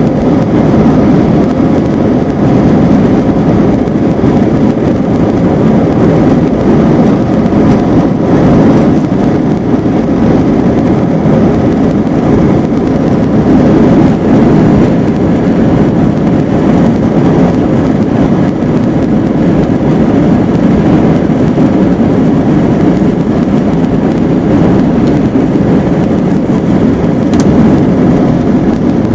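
Airbus A321-231's IAE V2500 turbofans running at high thrust, heard inside the cabin as a loud, steady, low rumble.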